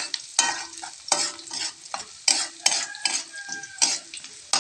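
Sliced shallots sizzling in hot oil in a wok while a spatula stirs them, scraping and knocking against the pan about twice a second. The shallots are being sautéed until yellowish and fragrant.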